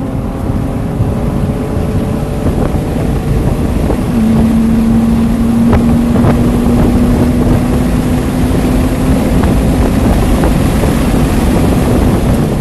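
BMW Z3's engine accelerating hard under full load, with heavy wind and road noise. A steady drone settles in about four seconds in.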